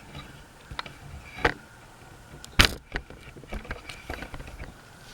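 Scattered clicks and knocks, the loudest a sharp knock about two and a half seconds in, over a faint steady hum.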